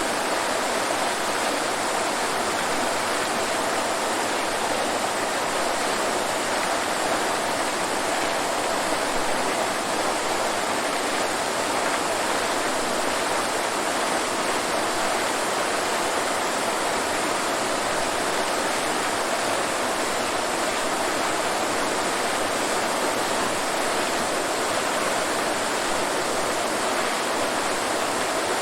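Waterfall: a steady, unbroken rush of falling water, with no low rumble.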